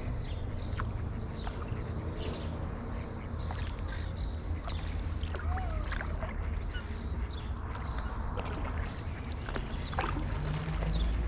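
Paddle strokes dipping and splashing in calm canal water, with many short bird chirps throughout and a steady low rumble of wind on the microphone.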